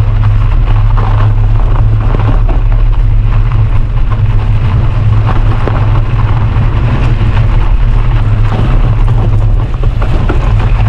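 Loud, steady low rumble of wind buffeting the microphone while riding a bicycle.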